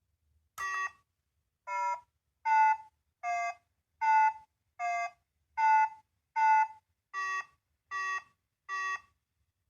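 Sound-making capsule toy's small speaker playing a slow electronic melody: eleven short beeping notes of varying pitch, each about half a second long and evenly spaced, starting just under a second in.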